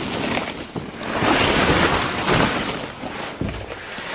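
Rough wind and handling noise on the microphone as the handheld camera moves through snow, loudest in the middle, with a few light knocks.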